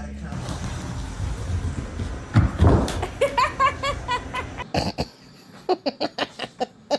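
Background music for the first second, then short pitched vocal sounds, and after a cut a person laughing in quick bursts.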